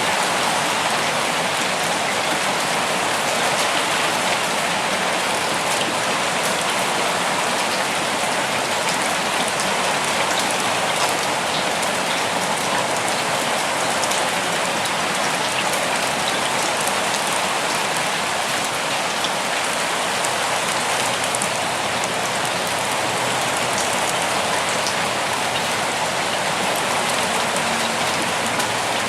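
Steady, even rain falling, a dense hiss of drops with faint scattered patters on top.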